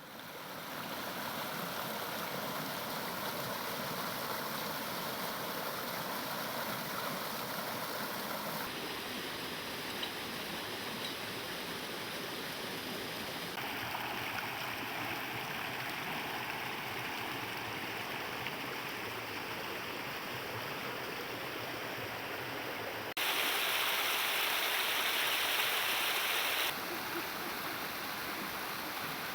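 Steady rushing of flowing stream water. Its tone and loudness jump abruptly four times, with a louder, brighter stretch near the end.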